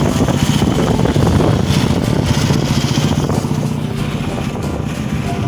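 Motorcycle engine running at a steady cruising note while riding along the road, with a broad rushing noise over it.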